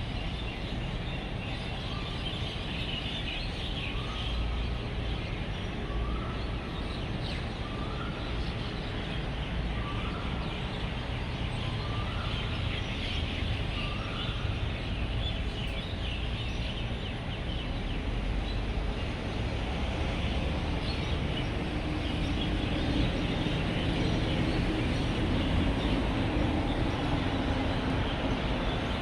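Evening chorus of many roosting birds chirping densely over a steady rumble of road traffic. In the first half a single bird calls a short note about every two seconds, each a little higher than the one before. Traffic swells louder near the end.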